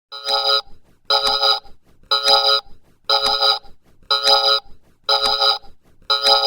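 Electronic telephone ringtone: a pitched tone pulsing evenly about once a second, each pulse about half a second long.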